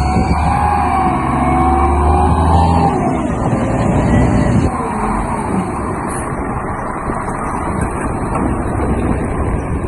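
Heavy diesel machinery engine running steadily. For about the first three seconds, wavering music-like tones lie over it.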